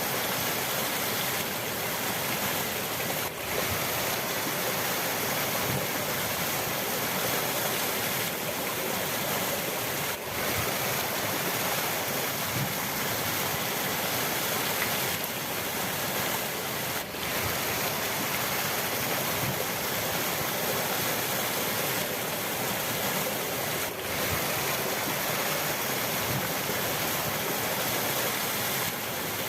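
River water rushing steadily as an even, unbroken hiss, with a brief slight dip in level about every seven seconds.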